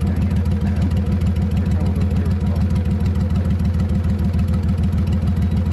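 Boat motor running steadily, a fast, even pulse with a deep low end and no change in speed.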